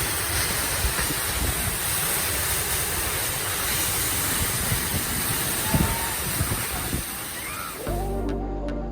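Steady rush of a waterfall heard close by, with a few low thumps. Background music comes in near the end as the water sound cuts off.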